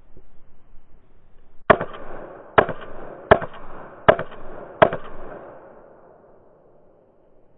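Five pistol shots fired in a steady string a little under a second apart, each followed by a short fading echo.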